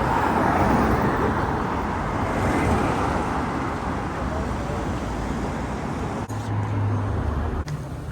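Road traffic noise on a city street: cars passing in a steady rush, loudest in the first few seconds. A steady low engine hum stands out for a second or so near the end.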